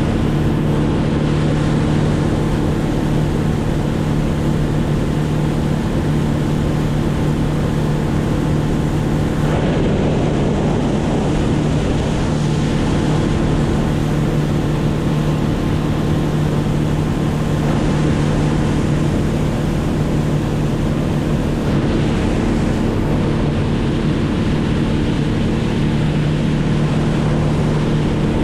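Boat motor running at a steady speed, one unchanging engine tone under a constant rush of water and wind.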